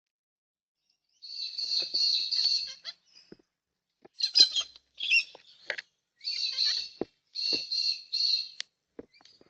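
A bird giving a series of harsh, screeching calls, about four of them, each a second or more long, with a few faint clicks in between.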